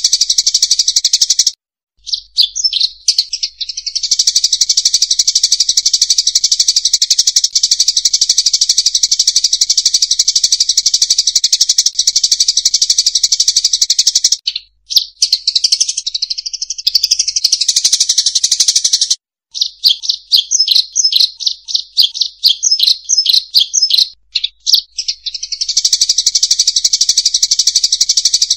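Lure-call recording of rice-field munias (emprit sawah): a dense, rapid chatter of high chirps, broken off abruptly a few times. About two-thirds of the way through it turns to a run of separate quick chirps before the dense chatter returns.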